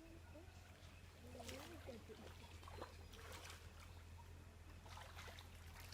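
Near silence: quiet outdoor ambience with faint distant voices, a few soft clicks and a steady low hum.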